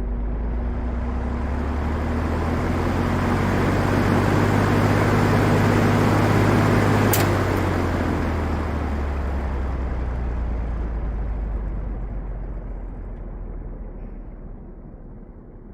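A LAU Ultra Twenty 20-inch box fan running with a whoosh of air and a motor hum. About seven seconds in there is a click, the hum stops, and the air noise slowly dies away as the blades coast down.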